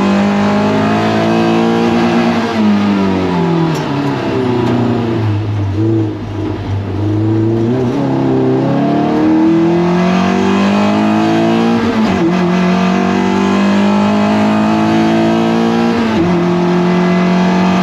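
Toyota MR2 race car's four-cylinder engine at racing speed. The revs fall through braking and downshifts, then climb again under hard acceleration, with two sudden drops at upshifts in the second half.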